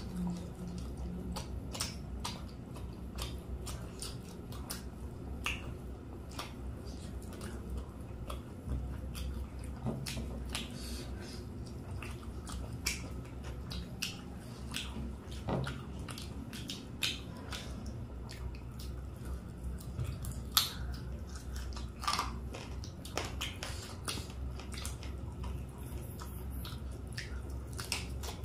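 People chewing and biting into fried chicken lollipops, with frequent short clicks and smacks of eating over a steady low hum.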